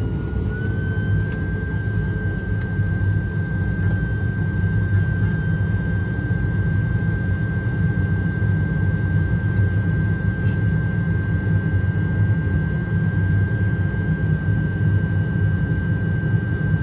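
ATR 72-500's Pratt & Whitney PW127 turboprop engines running, heard inside the cabin: a steady low drone with a high steady whine that climbs and settles onto one pitch within the first second.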